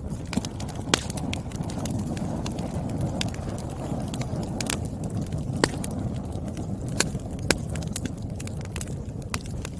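Firewood burning with a steady low rush of flame, broken by irregular crackles and about five sharper pops and snaps from the burning wood.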